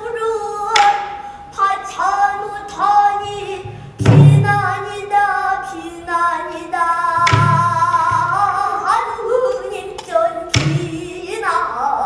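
A child singing pansori in a long, wavering sung line, accompanied by a buk barrel drum: deep thumps about every three seconds and sharp clicks between them.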